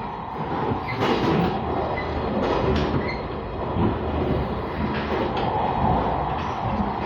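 Running noise of the JR Kyushu limited express Sonic electric train heard inside the passenger car: a steady rumble of wheels on rail with a hum, and several irregular clacks from the wheels.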